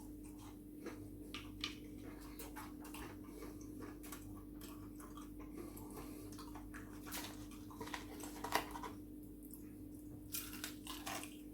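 A person chewing and biting food close to the microphone: irregular wet clicks and small crunches, the loudest a little past the middle, over a faint steady hum.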